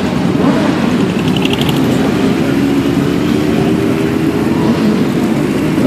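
Several motorcycle engines running and riding past in a group, a steady mix of overlapping engine notes.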